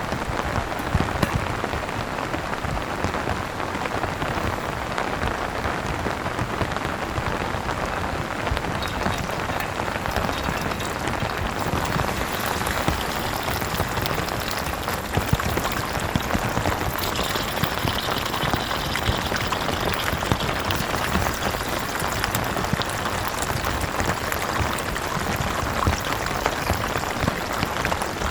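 Heavy rain falling steadily, a dense stream of individual drops striking close by.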